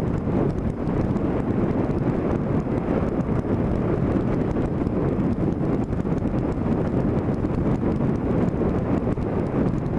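Steady wind noise rushing over the microphone of a camera clamped to a moving vehicle, with the vehicle's road and running noise underneath.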